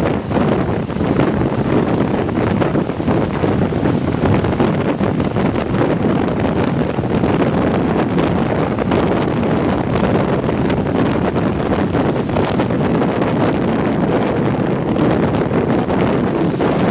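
Steady rushing road and wind noise of a Scania K410iB double-decker coach on the move, with wind buffeting the microphone.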